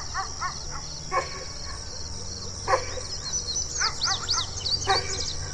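Dog barking in short, sharp barks, with a quick run of yips near the start. Small birds chirp about three and a half to five seconds in.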